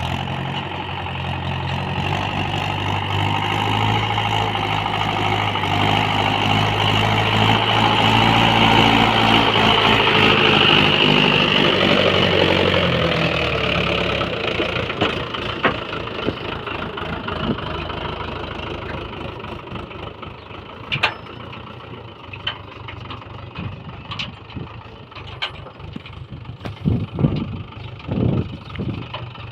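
Mahindra 575 tractor's diesel engine running steadily. It grows louder over the first ten seconds or so, then fades away after about thirteen seconds, leaving scattered clicks and knocks.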